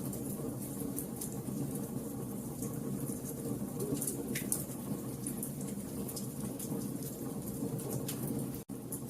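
Wood fire crackling: a steady low rush of burning with frequent sharp snaps and pops of the wood. The sound cuts out for an instant near the end.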